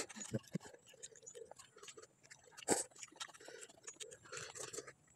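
Faint eating sounds close to the microphone: chewing and small scattered clicks, with one louder click about two and a half seconds in.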